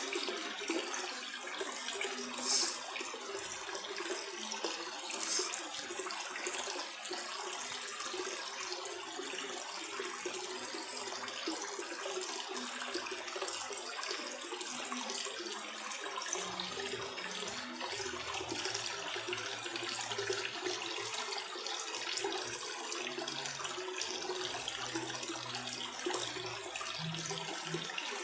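Steady running and splashing of water in an aquarium, the sound of the tank's filter outflow or aeration, with small irregular flickers.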